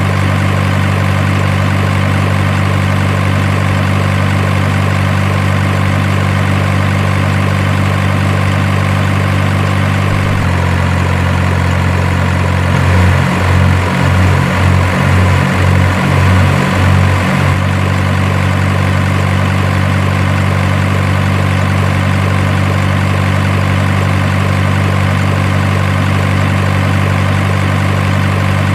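Synthetic truck engine sound idling with a steady, unchanging low hum. A little over a third of the way in the tone shifts, then for about five seconds it pulses rhythmically about twice a second before settling back into the steady idle.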